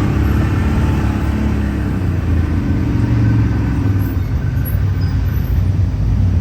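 Off-road vehicle engine running steadily. Its pitched hum gives way to a rougher low rumble about four seconds in.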